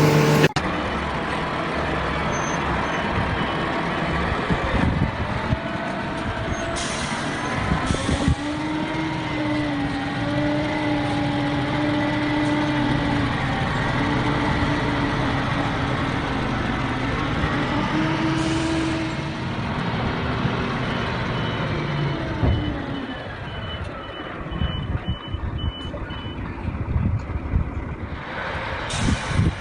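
Heavy vehicle or construction machine engine running, with a pitched whine that wavers in pitch. Near the end comes a series of faint, evenly spaced beeps, like a reversing alarm.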